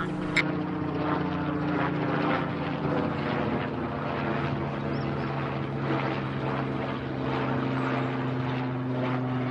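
Steady droning airplane engine sound: a few low tones held evenly under a hiss, with no change in pitch.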